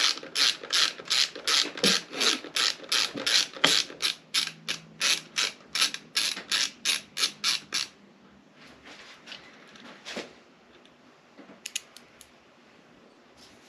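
Hand ratchet wrench clicking in an even rhythm of about three clicks a second as a bolt that has just broken free is backed out. The clicking stops about two-thirds of the way through, leaving a few faint clicks and taps.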